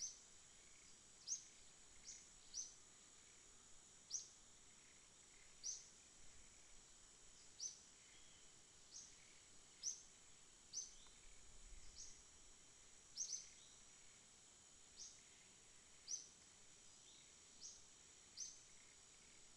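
Night ambience: a steady high insect trill runs throughout, with short chirps repeating irregularly about once a second, each falling quickly in pitch.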